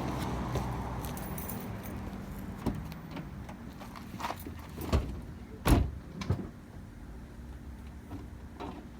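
Car keys jangling and a car door being opened and shut, several sharp clicks and knocks with the loudest thump a little past halfway.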